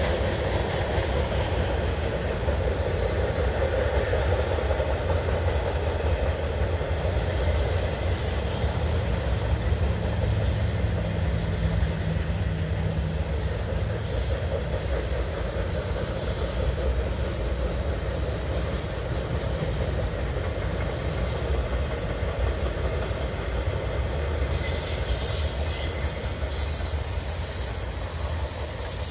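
Loaded freight-train flatcars rolling steadily past, a continuous rumble of steel wheels on rail with wheel squeal showing near the end. The sound eases slightly as the last cars go by.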